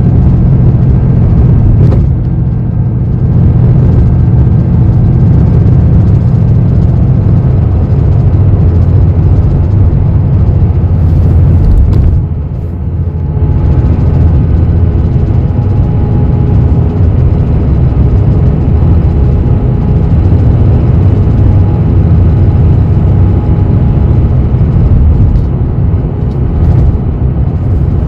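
Steady low rumble of a bus's engine and running gear heard from inside the passenger cabin, with a brief dip in loudness about twelve seconds in.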